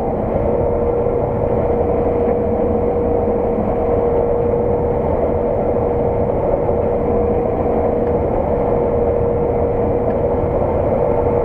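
Claas 600 TT combine harvester running steadily under load while harvesting, heard from inside the cab: a constant engine and machinery drone with a steady whine.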